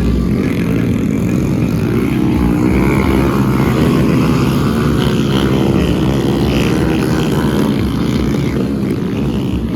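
Honda Pop motorcycle's small single-cylinder four-stroke engine revving in a motocross race, its pitch rising and falling again and again with the throttle.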